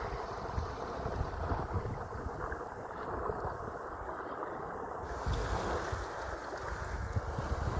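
Sea waves washing in with a steady rush, and wind buffeting the microphone in low rumbles that pick up again about five seconds in.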